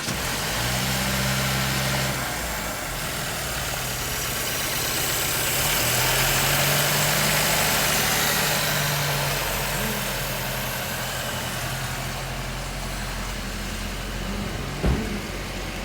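2018 Mercedes-Benz C300's 2.0-litre turbocharged four-cylinder engine idling steadily just after starting, a little louder and higher for a few seconds midway. A single sharp knock comes near the end.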